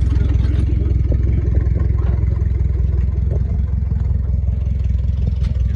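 An engine running steadily at idle, a low, even rumble with a fast pulse and a few light knocks of clatter over it.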